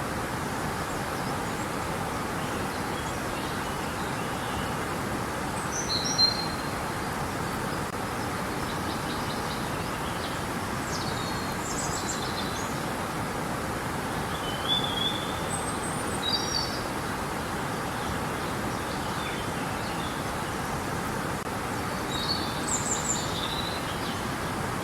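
Steady rush of flowing river water, with a few short bird chirps and calls over it, about four times.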